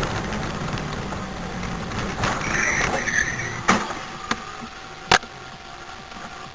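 Car driving, with steady engine and road noise, and a few sharp knocks in the second half, the sharpest about five seconds in.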